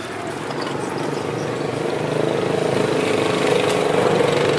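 An engine running and growing steadily louder, as if a machine or vehicle is drawing closer or working harder.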